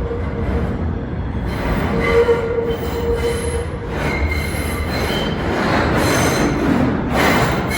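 New York City subway train running through the station with its steel wheels squealing on the rails over a steady rumble. The high squeals come and go, thickest in the second half.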